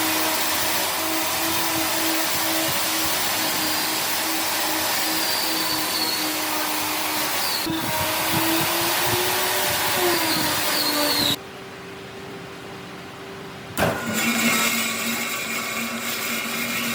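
A power tool running steadily with a constant hum over a loud hiss. Its pitch wavers briefly, then the sound cuts out suddenly about two-thirds of the way through. After a couple of seconds it runs again at a lower pitch.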